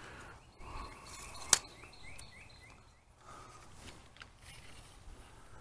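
A small bird calling a quick run of short falling chirps, about three a second, for a couple of seconds. A single sharp click cuts in about one and a half seconds in.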